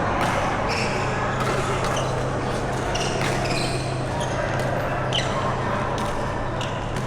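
Badminton doubles rally on an indoor court: irregular sharp racket hits on the shuttlecock and short high squeaks of shoes on the court floor, over a steady low hum.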